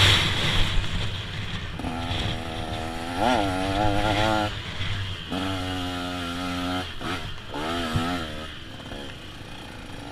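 Two-stroke motocross bike engines revving up and down through the gears, several separate rising and falling runs that grow fainter toward the end.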